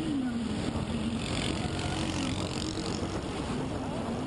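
Small motorcycle engine running on the road, its pitch rising and falling with the throttle, over wind rumble on the microphone.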